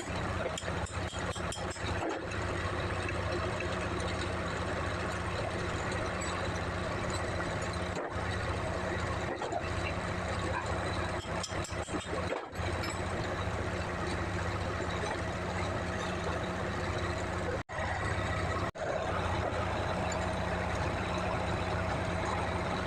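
Hitachi LX50 wheel loader's diesel engine running steadily at idle.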